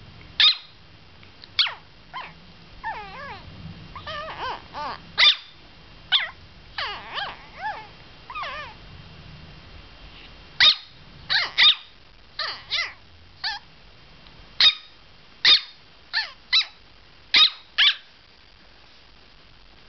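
Pomeranian puppy vocalizing to itself: a string of short, high-pitched whines and squeaky yips. The first half holds wavering whimpers; the second half holds about a dozen sharper yips, roughly one or two a second.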